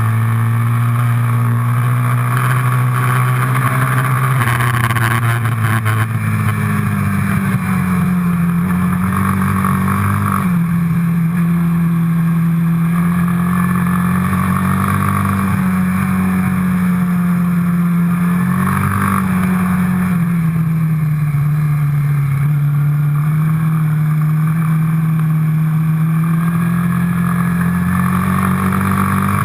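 Quad bike engine running under way, its pitch easing off and picking up again a few times with the throttle.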